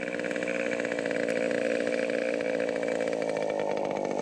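Small engine of a radio-controlled scale model Sopwith 1½ Strutter running steadily in flight, rising a little in level over the first second and then holding at one pitch.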